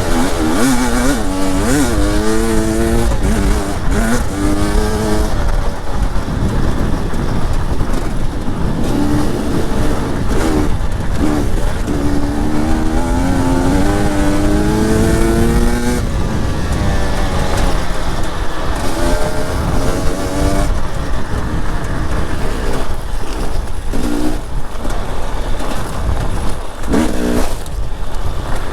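Two-stroke enduro dirt bike ridden off-road. The engine note climbs repeatedly, then drops back as the throttle is closed or the rider shifts up, over a steady rushing noise.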